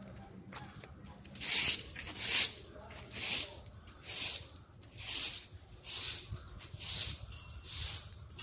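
A broom sweeping rubbish across the ground in steady swishing strokes, about one a second, beginning about a second and a half in.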